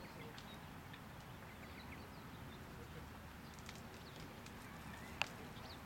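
Faint scattered bird chirps over a low steady background rumble, with one sharp knock about five seconds in.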